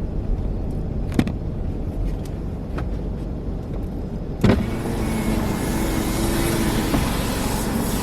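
Car engine idling, heard from inside the cabin, with a few light clicks. About halfway through there is a thump, and the driver's power window goes down: a faint motor whine and a steady hiss of outside noise come in.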